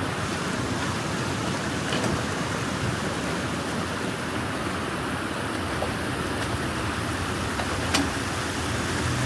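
Steady rush of water flowing through a freshly cleared drain channel, with two short clicks.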